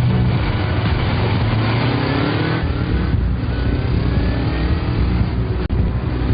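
Motor vehicle engine accelerating hard, its pitch rising several times in a row as it climbs through the gears.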